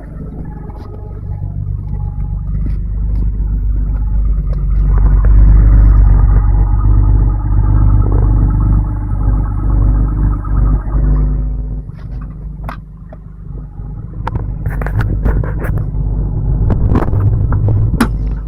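BMW M30B35 straight-six engine running, a steady low rumble. It gets louder through the middle and drops back about eleven seconds in, with sharp clicks or knocks over the last few seconds.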